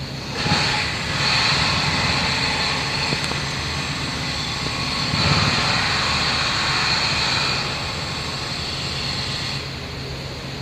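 Rushing noise of a passing vehicle, swelling about half a second in and dying back near the end.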